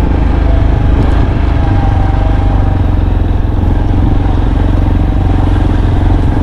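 A vehicle's engine running steadily as it drives slowly, a constant low drone.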